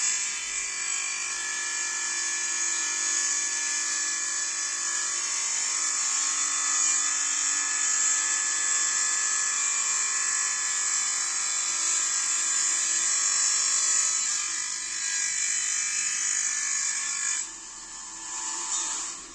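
Portable wet-cutting machine for ceramic, granite and marble running with a steady high-pitched whine. About 17 seconds in the sound drops sharply, swells briefly, then falls away again near the end.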